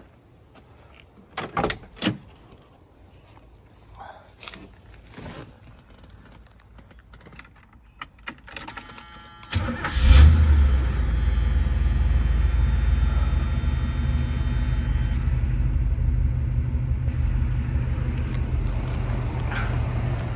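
1979 Pontiac Trans Am's V8 being started: two sharp knocks and some key rattling, a brief burst of starter cranking, then the engine catches with a flare about ten seconds in and settles into a steady idle.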